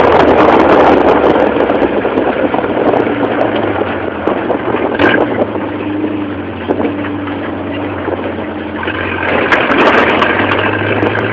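Engine of an off-road buggy running steadily, easing off through the middle and getting louder again about nine seconds in.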